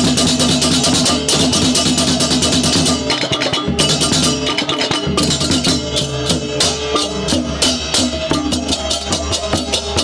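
Balinese baleganjur gamelan playing: rapid, dense cymbal clashes over drums and ringing gongs and metallophones.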